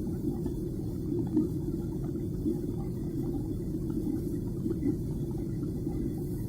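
Airliner cabin noise: the steady low drone of the engines and airflow, with no change in level.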